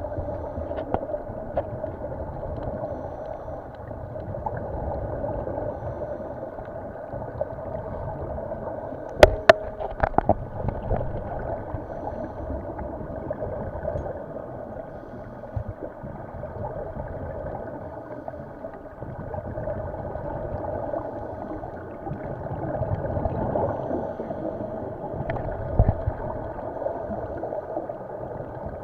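Muffled underwater sound with gurgling, rising and falling in slow swells, and a few sharp knocks about nine to ten seconds in.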